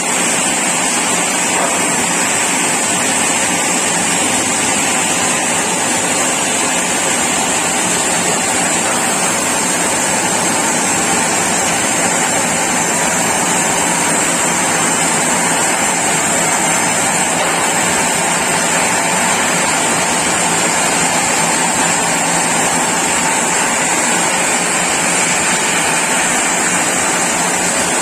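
Sawmill saw running steadily, a loud constant mechanical noise with a steady high hiss that does not let up.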